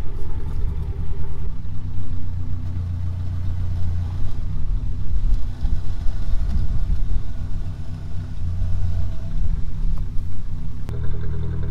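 Mercedes G-Class engine running under load as it pulls on a tow strap to drag free a car wheel seized by stuck brakes. The engine note swells twice and takes on a clearer pitch near the end.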